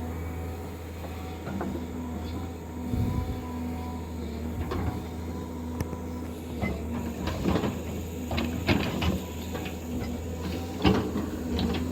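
A heavy machine's engine running steadily, with a string of knocks and clanks on top that grow busier in the second half, the loudest about eleven seconds in.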